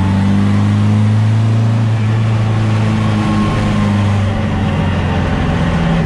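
Car engine heard from inside the cabin while driving, a steady low drone that drops slightly in pitch about four seconds in.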